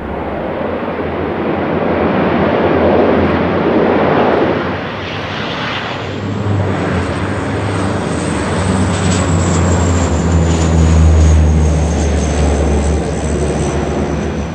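Aircraft turboprop engines running loud, plausibly a CL-415 water bomber's, with a heavy low drone under a rushing noise. A high turbine whine rises about halfway through and then eases slightly, and the sound swells twice.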